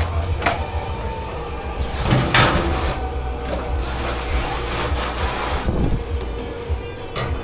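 Commercial kitchen dish pit at work: a steady low machine hum under a few sharp clanks and two hissing rushes, each a second or two long, about two and four seconds in.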